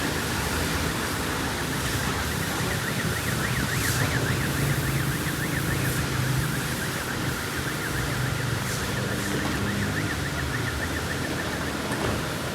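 Electronic warbling alarm, a tone that sweeps rapidly up and down about four times a second and fades out near the end, over a steady low hum.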